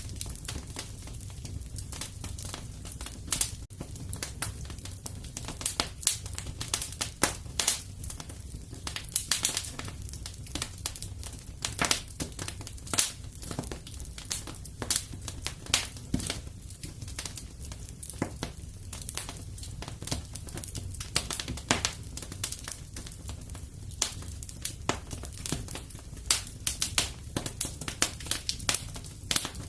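Fire in a fireplace crackling: irregular sharp pops and snaps over a low steady rumble.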